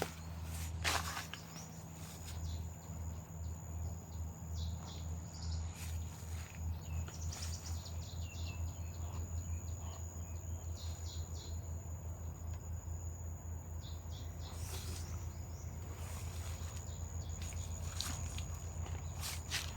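Evening garden ambience: a steady high-pitched insect drone, with scattered short bird chirps. Beneath them runs a low throbbing pulse that gradually speeds up.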